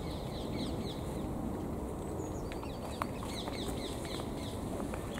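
Birds calling repeatedly in short falling chirps over a steady outdoor background hum, with a sharp click about three seconds in.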